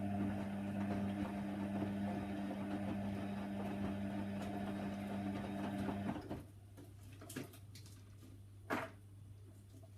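Hoover Nextra HNWL 7146 washer dryer running with a steady motor hum that cuts off about six seconds in, followed by a few faint clicks and knocks from the machine.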